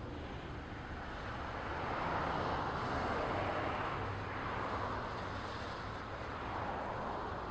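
Double-stack intermodal well cars rolling past, a steady noise of steel wheels on rail that swells about two seconds in and again near the end.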